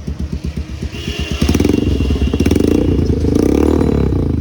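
Motorcycle engine idling with even firing pulses, then revved hard about a second and a half in, the exhaust note rising and falling as the throttle is blipped.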